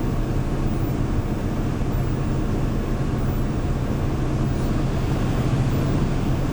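2013 Hyundai New Super Aero City CNG city bus engine running steadily, heard from inside the bus as an even low drone with no change in pitch.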